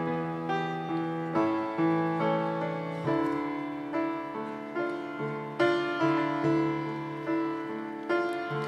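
Piano playing the introduction to a hymn: chords struck about twice a second and left to ring.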